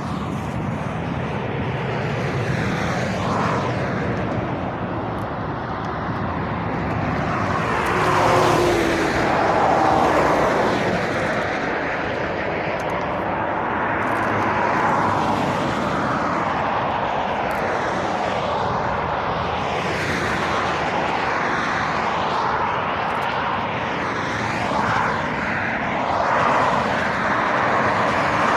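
Steady main-road traffic: tyre and engine noise of cars and lorries going by, swelling as each vehicle passes, loudest about eight to ten seconds in.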